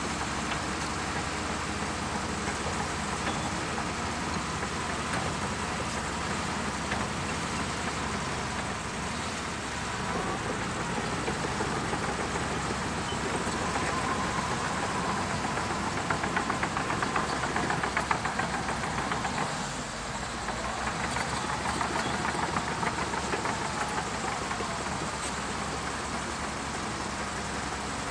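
Shantui DH17C2 bulldozer's diesel engine running steadily, growing louder for a few seconds past the middle with a rapid, even pulsing before settling back.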